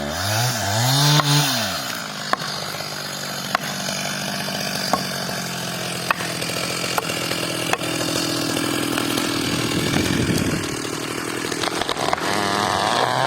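Chainsaw revved up and down twice, then running steadily at high speed, with sharp clicks every second or so.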